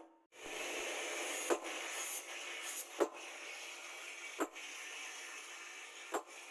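Steady rasping, abrasive rubbing, as of filing or sanding, with a light knock about every one and a half seconds.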